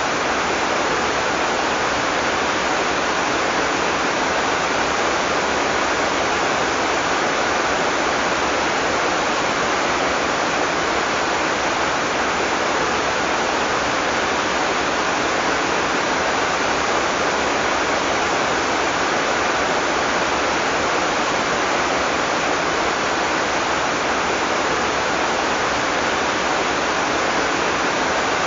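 Heavy rain pouring steadily, a dense even hiss with no thunder and no distinct drops standing out.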